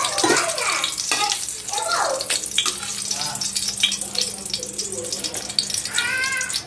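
Cashew nuts frying in hot ghee in a steel kadai: a steady sizzle with frequent crackles and pops, and a steel spoon stirring and scraping against the pan.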